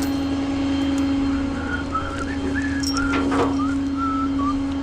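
A vehicle engine running steadily with an even hum, with a few short wavering whistled notes in the middle.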